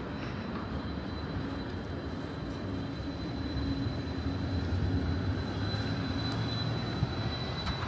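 Steady vehicle running noise: a low hum that swells a little in the middle, with a thin high whine throughout.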